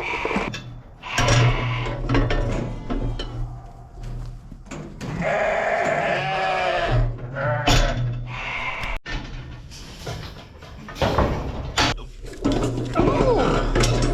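Sheep bleating, several calls one after another, over a steady low hum.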